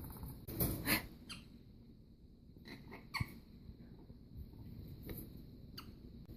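Angry pet prairie dog making its rattlesnake-like rattling hiss, a defensive threat sound, in a string of short noisy bursts, the loudest about a second in.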